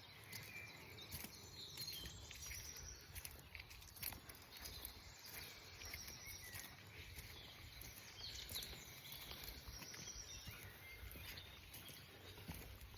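Faint birdsong: many short chirps and calls from several birds, over a low, steady rumble.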